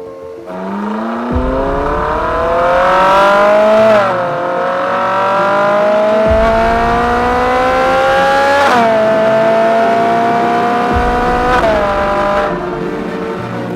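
Ferrari 458 Spider's naturally aspirated V8 accelerating through the gears: the engine note climbs steadily, then drops sharply at upshifts about four, nine and twelve seconds in.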